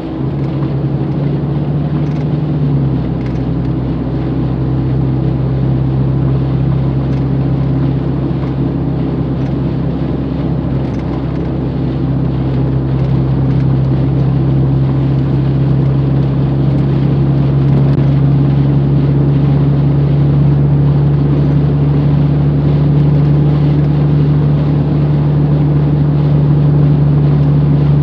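Car cabin sound while driving: a steady engine drone with road and tyre noise, growing slightly louder about halfway through.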